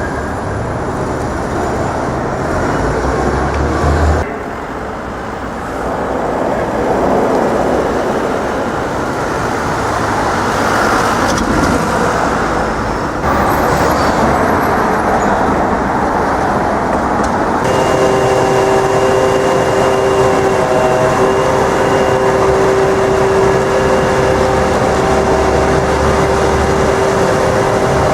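Busy city street traffic: a continuous wash of passing cars and heavier vehicles with low engine rumble. About two-thirds of the way in, a steady pitched hum from a vehicle or machine joins and holds to the end.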